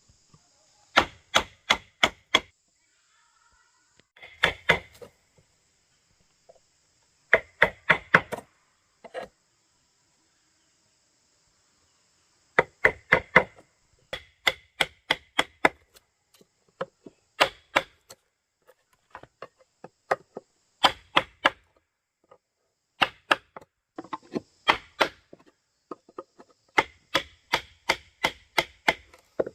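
Hand tool striking wood in quick bursts of three to eight sharp knocks, about five a second, with short pauses between the bursts.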